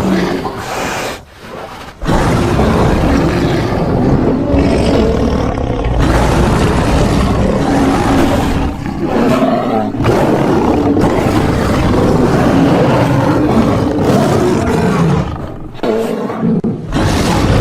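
Bear roars and growls made from grizzly, black bear and polar bear recordings: long, loud, rough roars with short breaks about a second and a half in and again near the end.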